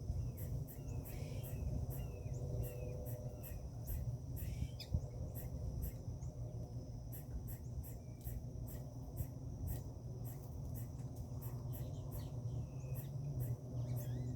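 Outdoor ambience: insects chirring steadily in a high, pulsing drone, with scattered short bird chirps, over a continuous low rumble.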